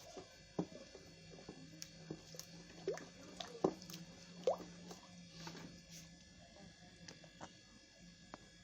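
Hand-stirring a thick, creamy conditioner mixture: scattered soft squelches, drips and light knocks of the stirrer against the container.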